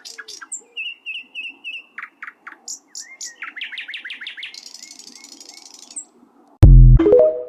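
Canary singing: quick high chirps, a fast trill and a buzzy rattle. About six and a half seconds in, a sudden, very loud low boom with tones sliding downward breaks in.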